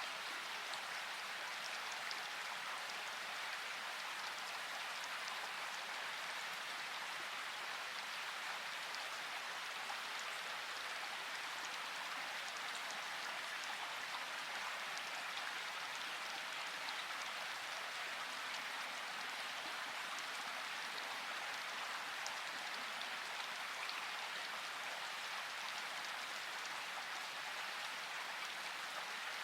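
Steady rainfall, an even hiss with fine scattered drop ticks.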